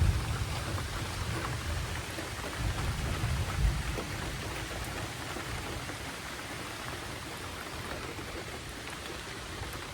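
Steady rain falling, with a low rumble of thunder during the first few seconds that dies away about four seconds in, leaving only the rain.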